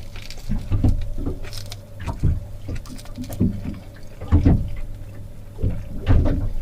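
Small waves slapping irregularly against the hull of a small boat at anchor, a deep knock or splash every second or so, over a steady low hum.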